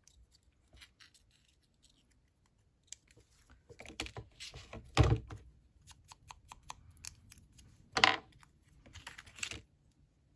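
Small paper pieces and craft bits being handled on a tabletop: scattered light clicks, taps and paper rustles, with two louder knocks about five and eight seconds in.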